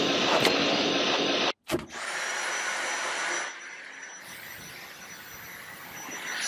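Dyson vacuum cleaner running with a steady rushing motor and airflow noise and a thin high whine. It cuts off sharply for a moment about one and a half seconds in, then resumes and drops to a quieter level a couple of seconds later.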